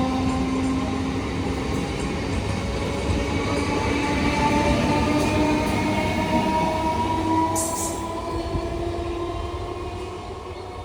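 Train passing on the track: dense rumble of wheels on rail with thin whining tones that slide slowly in pitch, a short high hiss about seven seconds in, and the sound easing off near the end as it draws away.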